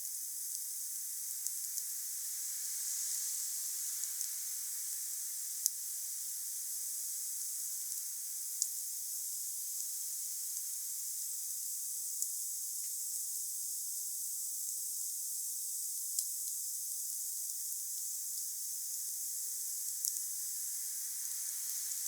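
Wood fire burning with a steady high hiss and a sharp crackle or pop from the wood every few seconds.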